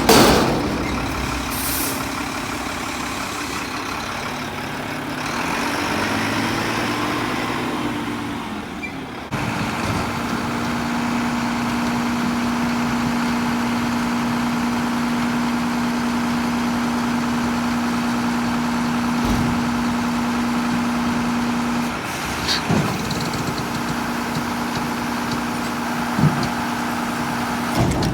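Mack front-loader garbage truck's diesel engine running, its pitch rising and falling over the first several seconds. About nine seconds in the sound changes abruptly to a steady hum at one pitch, held for about twelve seconds and then fainter, with a couple of short knocks near the end.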